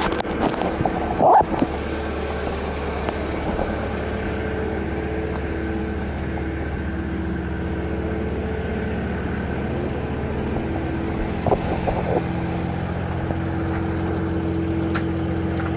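An engine running steadily at a constant speed, with a sharp knock about a second in and two lighter knocks around eleven seconds.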